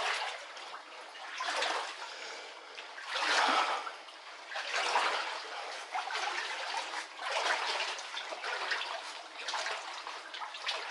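Water sloshing around legs as people wade through knee-deep floodwater, a swash with each stride about every one and a half to two seconds.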